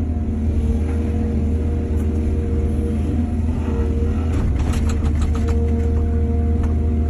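Excavator engine running steadily with a low rumble, and a quick cluster of sharp clatters about four to five seconds in.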